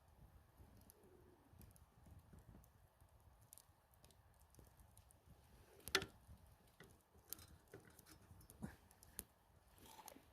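Faint, irregular crackling and popping of a wood campfire, with one sharper pop about six seconds in.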